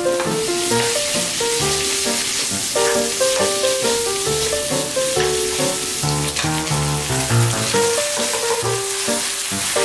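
Bacon and sliced onion sizzling steadily as they fry in melted butter in a pan. Background music with a melody of short notes plays over the sizzle.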